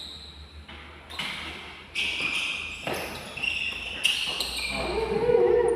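Badminton rally on an indoor court: rackets striking the shuttlecock in sharp cracks about once a second, with footwork and shoe scuffs on the court floor, echoing in a large hall.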